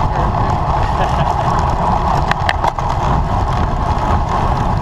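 Steady wind rush and road rumble on a camera microphone riding along on a racing bicycle, with a few sharp clicks about halfway through.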